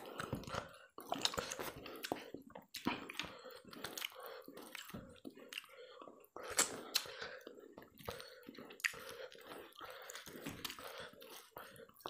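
Close-miked wet chewing, lip smacking and sucking as a person eats meat off a curried mutton head by hand, with many irregular small clicks.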